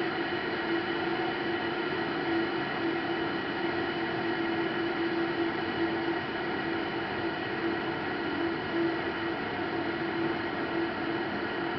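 Aceline SS1800 electric kettle heating water: a steady rushing hiss with a constant hum underneath.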